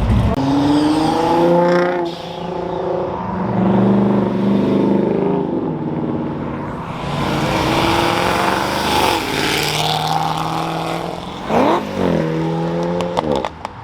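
Loud performance car engines accelerating away and passing by, their pitch climbing through the gears, with quick throttle blips near the end.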